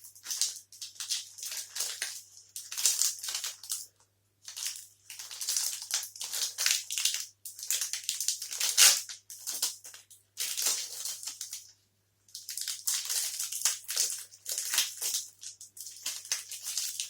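Plastic wrapper of a Gainomax protein bar crinkling and rustling in short stop-start bursts as the bar is unwrapped.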